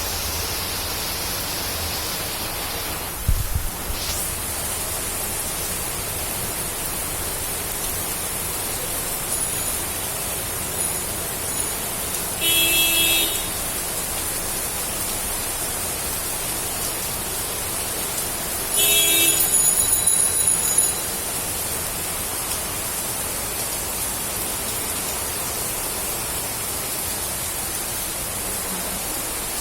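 Steady rain falling. A low thump comes about three seconds in, and two brief pitched sounds about six seconds apart, the second one longer.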